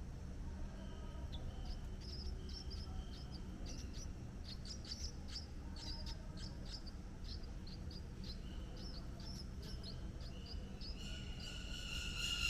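Birds chirping: a quick run of short, high chirps, several a second, over a thin steady high tone and a low background rumble. Near the end a louder, fuller call starts.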